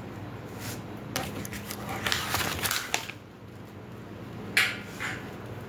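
Metal grill parts being handled during assembly: scattered light clicks and rattles, with a sharper knock about four and a half seconds in.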